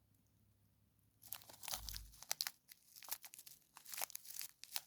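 A packet of model railway track pins crinkling and rustling as it is handled, in a series of irregular crackles starting about a second in.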